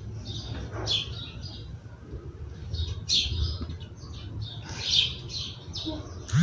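A small bird chirping, a series of short high chirps at uneven intervals over a low steady hum.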